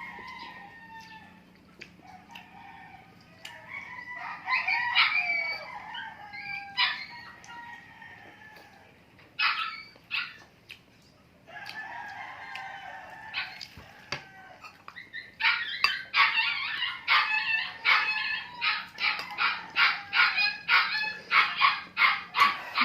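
A dog barking over and over, about two or three barks a second through the last third, begging to be fed. Before that come longer, drawn-out calls, with a rooster crowing.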